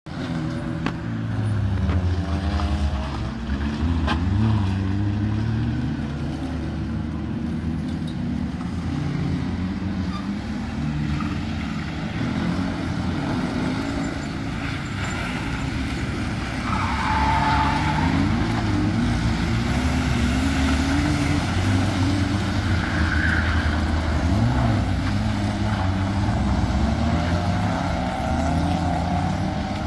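Racing car engine running hard, its pitch climbing and dropping again and again as it accelerates and shifts through the gears.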